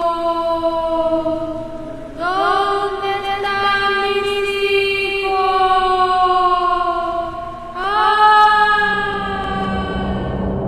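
Eerie wordless choir-like singing for a horror effect: long held notes that each sink slowly in pitch, with a new note swooping up into place about two seconds in and again near eight seconds. A low hum creeps in near the end.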